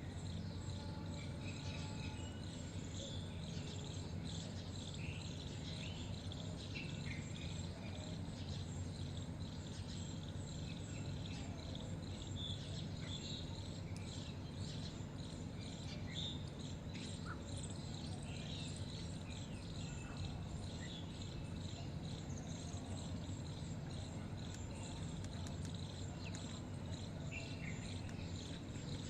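Scattered short bird chirps over a steady background of insect chirring and a low hum.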